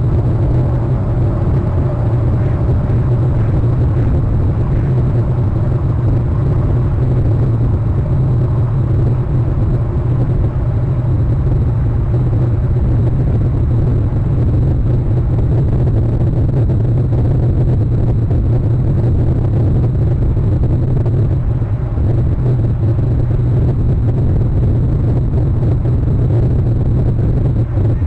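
A loud, steady low rumble with a fainter hiss above it, unchanging throughout.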